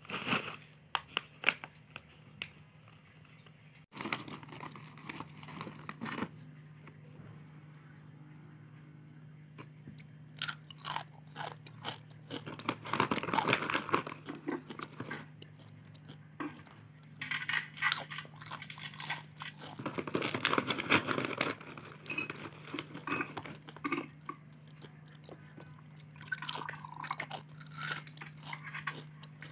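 Crunchy corn tortilla chips being bitten and chewed close to the microphone, in irregular bursts of crunching over a steady low hum.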